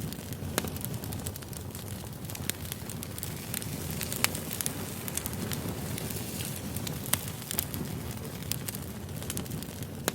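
Wood campfire burning: a steady low rush of flame with frequent sharp crackles and pops, a few of them louder than the rest.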